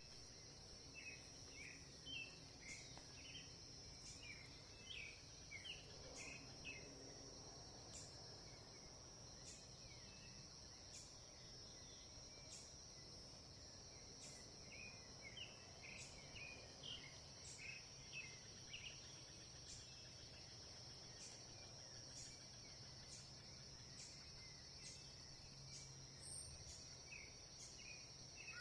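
Faint outdoor ambience: a steady high-pitched insect drone like crickets, with a soft tick about every second and a half, and scattered bursts of short bird chirps near the start, around the middle and again at the end.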